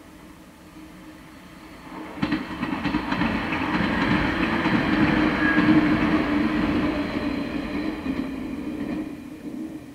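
Train passing close by on the Sanyo Line: it comes in suddenly about two seconds in, with wheels clacking over the rail joints and a loud running rumble, then fades out near the end.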